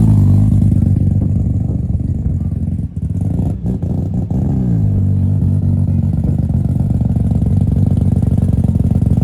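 Car engine running, its revs falling back to idle at the start, then blipped once about four and a half seconds in and settling into a steady idle.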